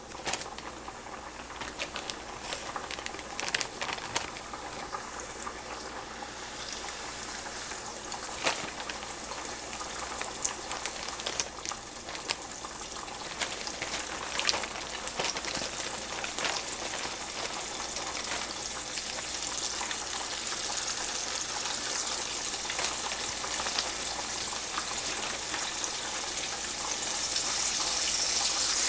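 Flour-dredged chicken pieces frying in hot grease: a steady sizzle with scattered crackles and pops, slowly growing louder and loudest near the end.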